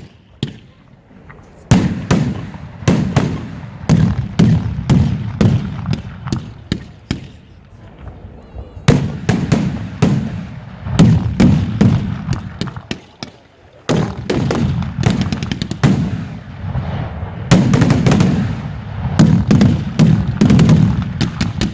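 Professional aerial fireworks display: shells bursting in dense volleys of loud bangs with a booming low rumble, broken by a short lull about a second in and another about 13 s in. Around 15 s a quick string of small pops crackles between the bangs.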